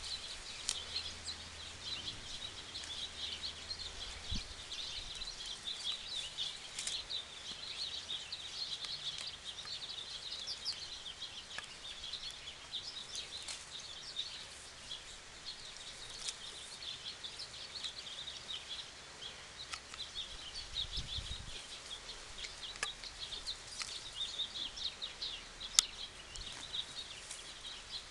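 Birds chirping steadily outdoors, a dense scatter of short high chirps, with a few low thumps.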